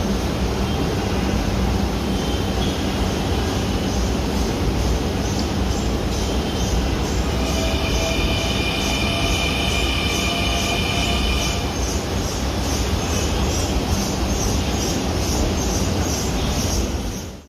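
Metro train running on its rails with a steady rumble, and a high wheel squeal from about seven to eleven seconds in. The sound cuts off abruptly at the end.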